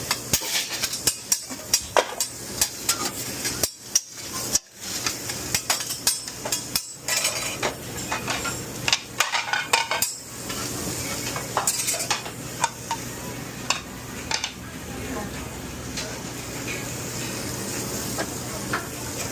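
Metal utensils clattering and scraping on a commercial grill while meat sizzles. There are many quick knocks over the first half, then a steadier sizzling hiss with only occasional clinks.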